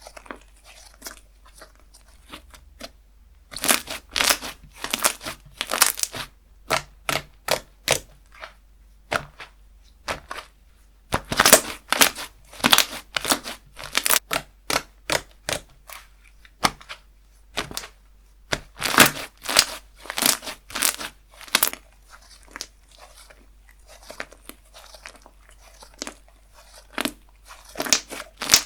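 Slime being squeezed, stretched and poked by hand, giving irregular runs of sharp wet pops and crackles.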